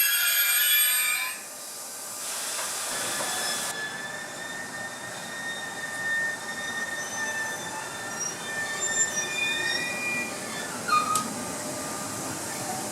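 A train rolling slowly with its wheels squealing in long, high whining tones over a low rumble. A louder cluster of steady tones stops abruptly about a second in.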